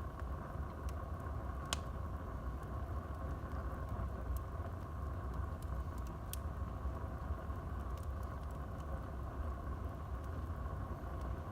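Wood fire burning in a fireplace: a steady low rumble of the flames with a few sharp crackles and pops of the burning wood, the loudest about two seconds in.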